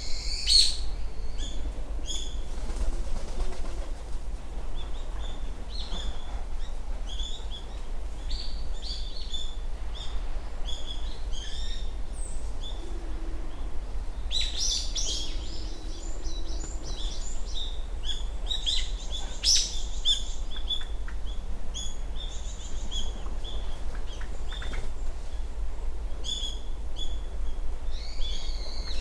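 Small birds chirping and calling over and over, a busy mix of short, high notes and trills that grows most lively about halfway through, over a steady low rumble.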